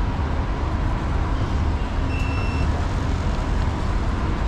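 Steady low rumble of vehicle engines and traffic, with a short faint beep about two seconds in.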